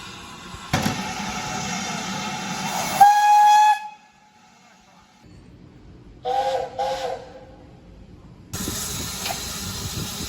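Steam locomotive whistle: a hiss of steam, then a short, loud single-pitch blast about three seconds in. Two short two-note toots follow around the middle, and steam hisses again near the end.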